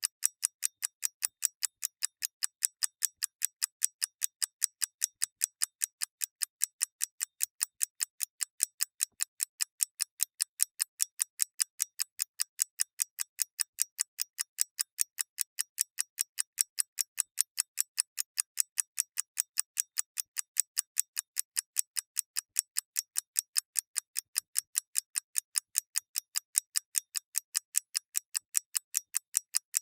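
Clock ticking: rapid, evenly spaced, light, high-pitched ticks at a steady level, with no deeper tone beneath them.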